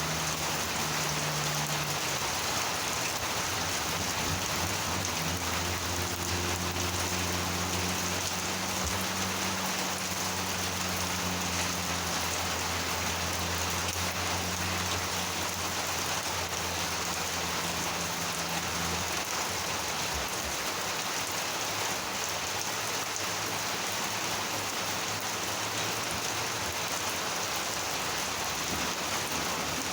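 Monsoon rain falling steadily, a dense even hiss of rain on surfaces. A low steady hum lies underneath and fades out about two-thirds of the way through.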